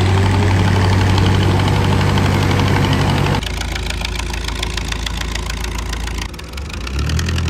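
Tractor diesel engines running, in abrupt cuts: a loud, steady engine note for about three seconds, then a sudden switch to a quieter engine with a fast, even beat, which dips and swells again near the end.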